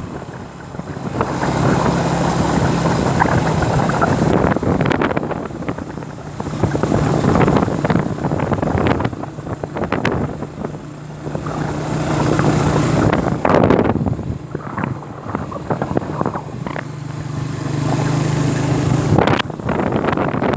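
Motorbike on the move: a steady engine drone under heavy wind buffeting the microphone, swelling and easing every few seconds.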